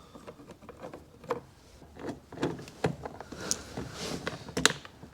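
Irregular light clicks and knocks of plastic door trim and fasteners being handled and worked loose from a truck's door panel. The sharpest knock comes near the end.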